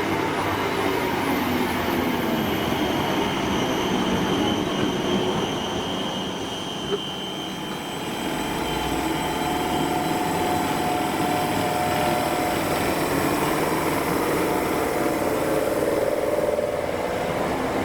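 A train running past at speed: a steady rumble of wheels on rail overlaid with several sustained whining tones that slowly bend in pitch, with a single sharp click about seven seconds in.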